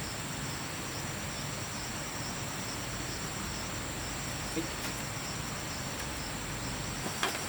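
Steady chorus of insects trilling, a continuous high pulsing buzz, with a few light clicks near the end.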